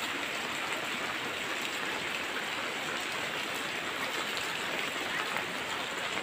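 Steady rain falling on a wet concrete yard: an even, unbroken hiss.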